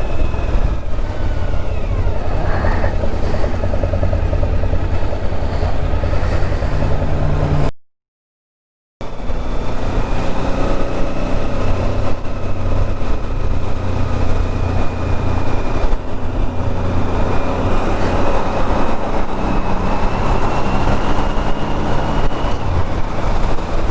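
Motorcycle engine running steadily under way, with road noise. The sound cuts out completely for about a second roughly a third of the way through, then resumes.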